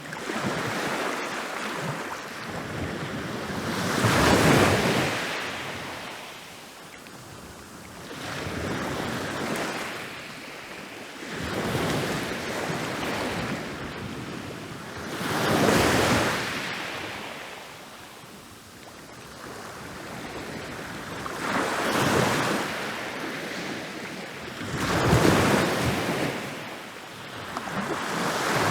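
Ocean waves rolling in and breaking on a beach, one after another: each wave swells to a crash and washes back down over a few seconds. The biggest breaks come about four seconds in, near the middle and again near the end.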